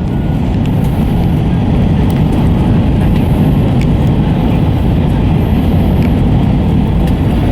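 Steady, loud rumble inside the cabin of an Airbus A320, a dense low noise without clear pitch.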